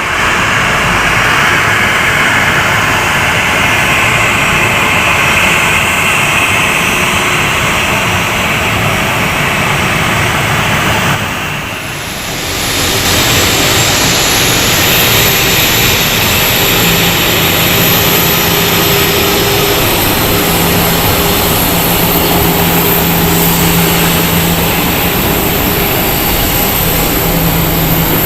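Airliner engines running loud and steady, a continuous roar. It dips briefly about twelve seconds in, and afterwards a steady hum and a high whine sit on top of the roar.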